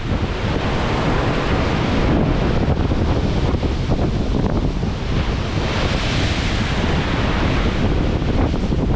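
Storm wind buffeting the microphone over the rush of heavy breaking waves in a rough sea, with a louder surge of hissing surf about six seconds in.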